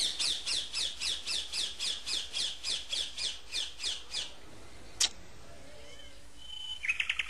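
A bird calling: a rapid run of about fifteen sharp, high notes falling in pitch, about four a second, for roughly four seconds. A sharp click follows about a second later, and a shorter, faster run of lower calls comes near the end.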